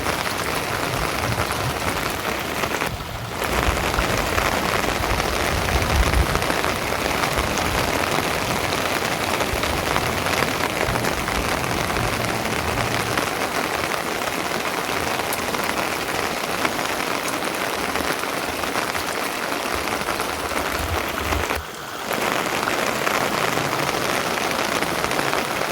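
Steady rain falling, a dense even patter that drops out briefly twice.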